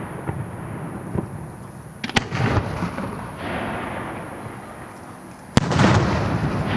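Aerial fireworks shells bursting: a sharp bang about two seconds in and a louder one near the end, each followed by a rolling, echoing rumble.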